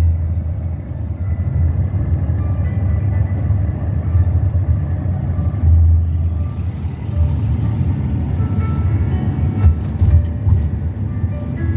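Car driving: steady low rumble of road and engine noise.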